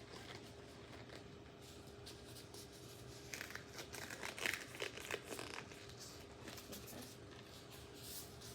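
Crinkling and rustling of a disposable glove being pulled on, in a short flurry about halfway through, over a faint steady room hum.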